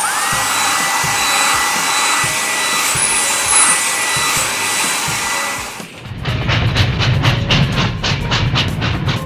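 Cartoon car-wash machine sound effect: a steady hiss with a whine that rises as it starts and then holds steady for about six seconds. It then gives way to a rhythmic churning of about four beats a second over a low rumble.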